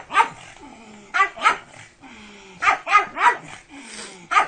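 A dog barking: about seven short barks in quick clusters, one, then two, then three, then one more near the end.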